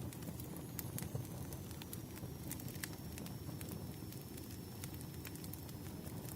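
Wood fire crackling: irregular sharp pops and snaps of burning firewood over a steady low rumble of the flames, with a faint thin high hiss running under it.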